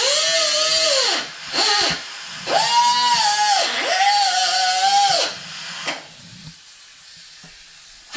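A power tool run in short bursts, about four in the first five seconds, each speeding up to a high whine with a hiss, holding briefly and winding down; from about six seconds in it goes much quieter.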